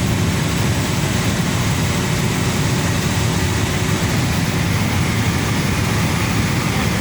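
Steady, loud cabin noise of a Cessna Grand Caravan 208B: its single turboprop engine and propeller running, with a faint steady whine above the low drone.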